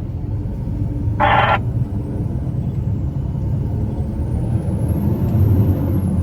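Truck engine running steadily with a low rumble, and a short burst of hiss a little over a second in.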